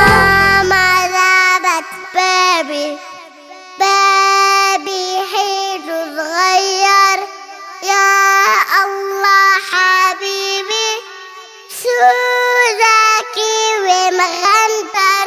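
A young girl singing a melody alone, in held, gliding phrases with short breaks between them; the low backing music drops out about a second in.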